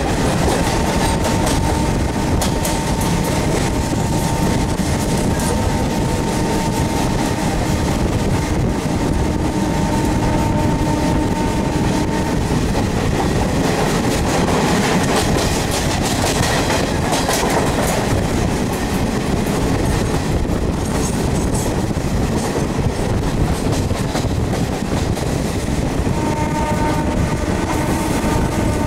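DEMU train running at speed, heard from an open window: wheels clattering over the rails in a loud, steady rumble. A steady whine sits over it for the first dozen seconds and comes back near the end.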